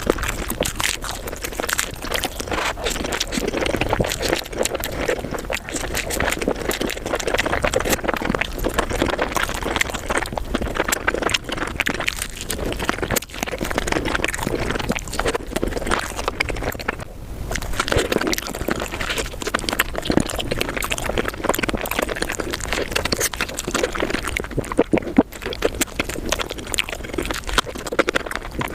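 Close-miked eating sounds sped up five times: a continuous, dense chatter of wet chewing, smacking and slurping clicks, running too fast to separate into single bites.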